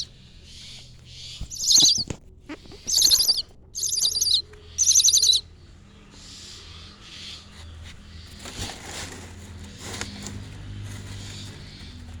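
A bird giving four loud, harsh, scratchy calls in quick succession in the first half, then falling silent.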